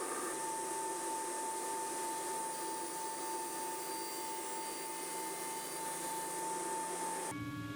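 Sliding panel saw running with a steady whine over a rushing noise, which cuts off abruptly near the end into a lower hum.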